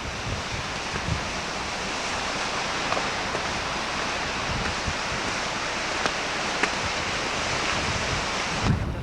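A steady rushing noise, even and without pitch, with a few faint clicks, that cuts off abruptly near the end.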